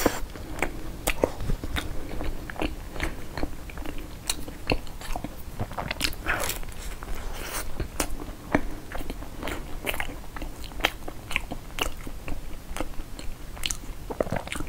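Close-miked biting and chewing of a flaky egg tart, with many small, irregular crisp crackles as the pastry crust breaks up in the mouth.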